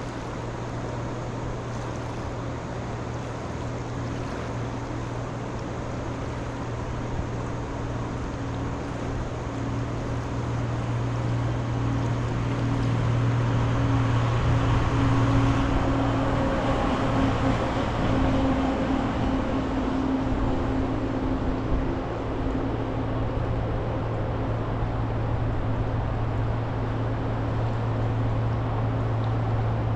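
Engine drone over a steady low rumble. It builds from about a third of the way in, is loudest around the middle, then eases off a little.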